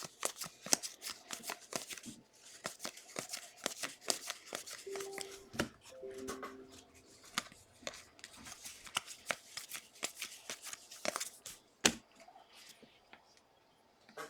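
Football trading cards being handled and flipped through: a quick, irregular run of light clicks and sliding rustles.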